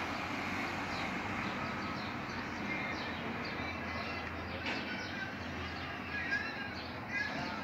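Short high chirps of small birds, several times, over a steady background noise.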